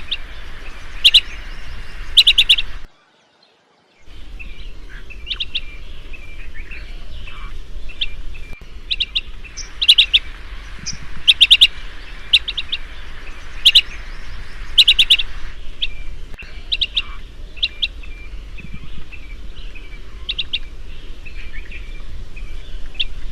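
Chestnut-headed bee-eater calling: short trilled chirps in quick clusters of three or four, repeated every second or two over a steady background hiss, broken by a brief silence about three seconds in.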